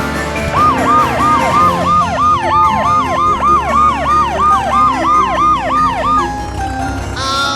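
Siren sound effect in a fast yelp, a tone sweeping up and down about three times a second, over background music; it stops about six seconds in.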